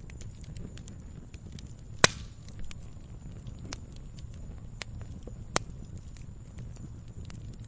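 Firewood burning with a steady low rumble and scattered small crackles, and two sharp loud pops from the wood, about two seconds in and about five and a half seconds in.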